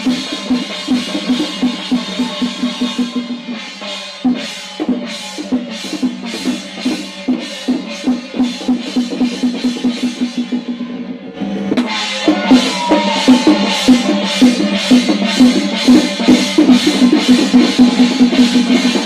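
Drums beaten in a fast, even rhythm, with a short break about four seconds in; about twelve seconds in the drumming resumes louder.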